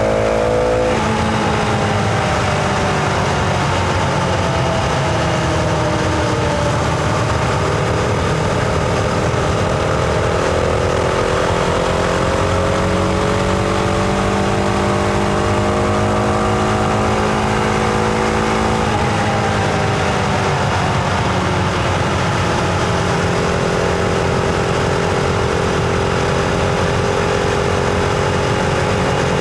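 Husqvarna Vitpilen 701's single-cylinder engine under way: engine pitch falls about a second in, climbs slowly and steadily for a long stretch, drops again a little past the middle, then holds at a lower, steadier pitch as the bike runs on.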